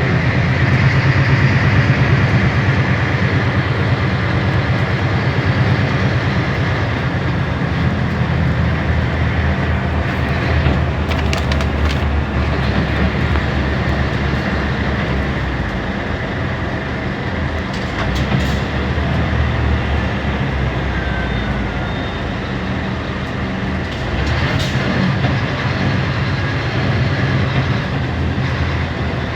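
Scania K320 hybrid bus running, a steady low drone with a few sharp clicks and knocks from about ten seconds in.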